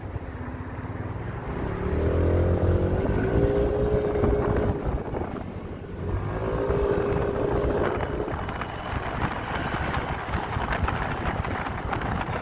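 Motorcycle engine running while riding, pulling away twice, about two seconds in and again about six seconds in, its pitch rising and then holding steady, with wind rushing over the microphone.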